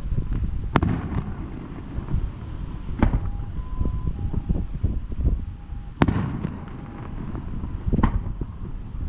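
Aerial fireworks shells bursting: four loud bangs spaced two to three seconds apart, two sharp and two deeper. Between the bangs there is a low rumble with crackling.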